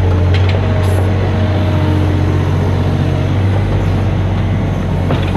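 Mini excavator's diesel engine running steadily at a constant speed.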